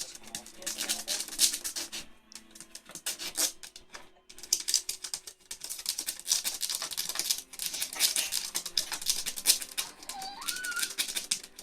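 A puppy's paws and claws scrabbling at a plastic toy frisbee, making rapid, uneven clicking, tapping and scraping. There is one short rising squeak near the end.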